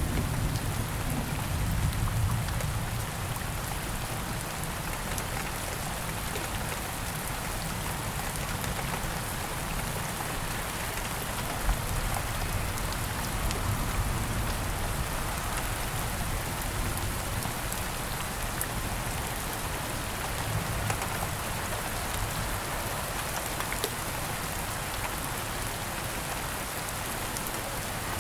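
Steady rain falling, an even hiss with scattered drop ticks. A low rumble of distant thunder fades out over the first few seconds.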